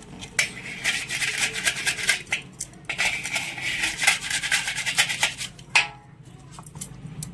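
Motorcycle clutch plates and parts being scrubbed clean in petrol by hand: repeated rubbing strokes with sharp clicks of metal parts knocking together.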